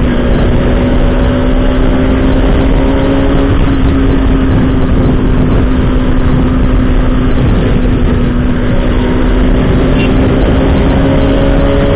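Bajaj Pulsar RS200's single-cylinder engine running at a steady cruising pace, its note stepping down slightly right at the start, then holding. Heavy wind rush on the camera microphone runs under it.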